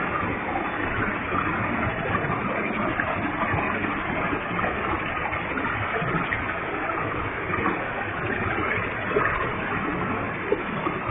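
Waterfall with a heavy flow of water falling and splashing, a steady, even rush with no breaks.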